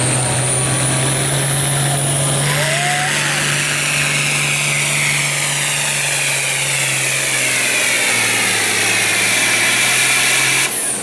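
Hot farm class pulling tractor's engine running hard under load, pulling the weight-transfer sled, with a high whine above it. The engine note falls slowly as it bogs down under the sled, then drops away suddenly near the end as the pull finishes.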